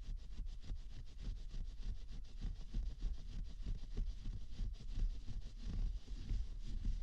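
Quick, repeated scratching and rubbing strokes close against a binaural microphone, several a second and steady throughout, as in an ASMR ear-cleaning treatment.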